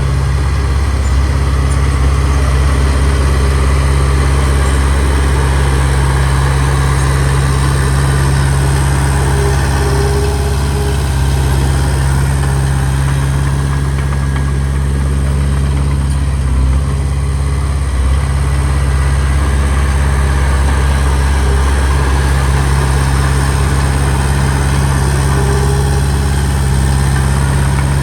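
Diesel engine of heavy earthmoving machinery running steadily at an even pitch, loud and close.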